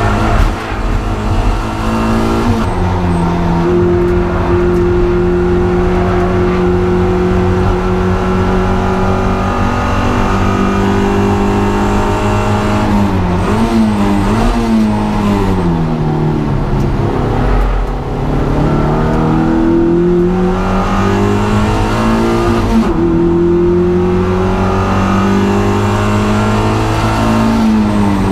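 Racing car's four-cylinder engine running hard at high revs on track. About halfway through, the revs drop in steps through downshifts under braking, then climb again as it accelerates away. There is another brief dip and rise near the end.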